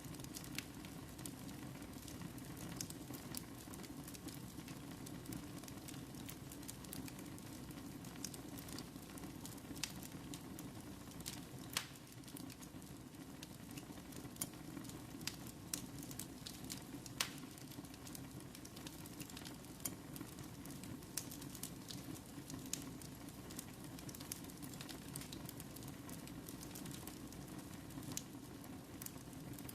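Fire burning in a fireplace: a steady low rush with scattered crackles and sharp pops, a few louder pops about halfway through.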